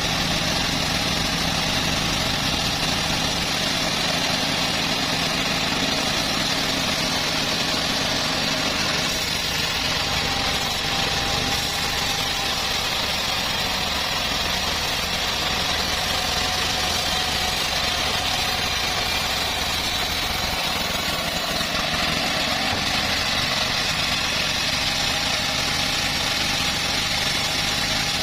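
Homemade bandsaw sawmill running steadily, its engine and blade making a continuous mechanical noise with no pauses.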